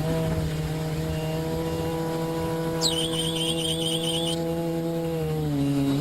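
Multirotor drone's electric motors and propellers holding a steady hum, the pitch stepping slightly with throttle and dropping near the end. About three seconds in, a high warbling sound lasts about a second and a half.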